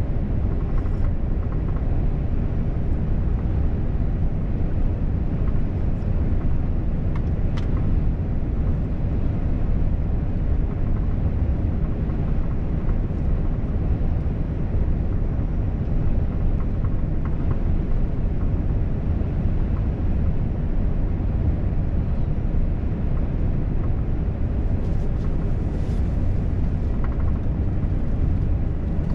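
Volvo FH truck driving at steady speed: a steady low rumble of engine and tyres on the road, with a few faint ticks.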